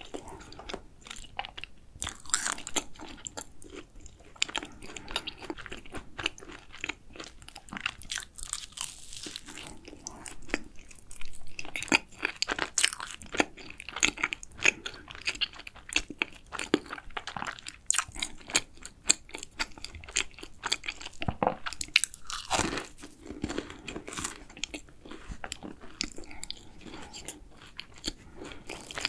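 Close-miked biting and chewing of a flaky chocolate cruffin: dense, irregular crisp crunches and crackles of laminated pastry, with louder clusters of crunching in the second half.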